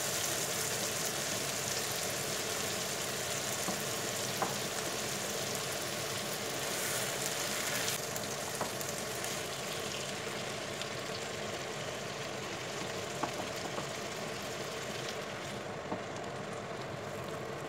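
Raw chicken breasts sizzling in hot melted margarine in a nonstick frying pan, with a few light taps of a wooden spatula. The sizzle softens from about halfway through as more pieces go into the pan.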